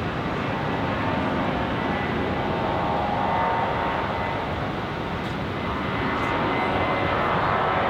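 Jet airliner engines running, a steady rush of noise with faint whining tones.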